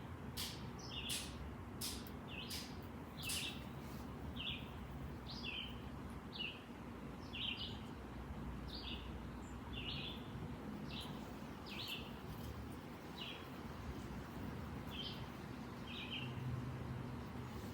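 Wood fire crackling, with sharp pops in the first few seconds, while a bird chirps over and over: short, slightly falling chirps, about one or two a second.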